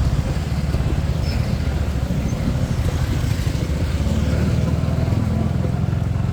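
Small 125 cc motorbike engine running steadily under way, a continuous low rapid pulsing from its exhaust.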